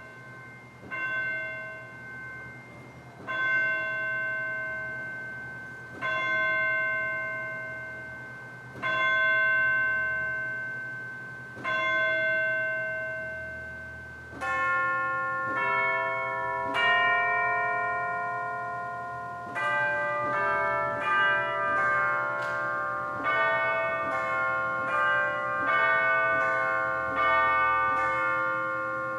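Church bells: one bell tolls about every three seconds, each strike ringing out and fading, then about halfway through several bells of different pitches join in and ring in quick, overlapping succession.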